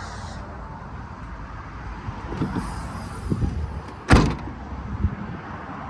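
A door on a VW California camper van being shut: a few small knocks and rattles, then one loud slam about four seconds in, against a steady outdoor rumble.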